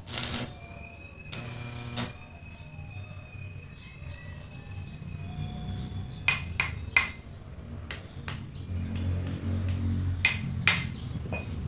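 Metal being struck and handled: irregular sharp knocks and clinks, some in quick pairs or threes, one early strike leaving a short metallic ring, over a low steady rumble.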